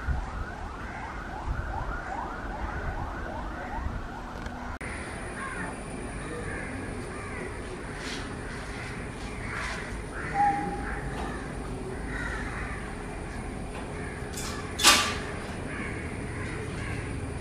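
Birds calling over steady background noise: a rapid run of repeated chirps for the first few seconds, then scattered calls, with one sharp knock about 15 seconds in.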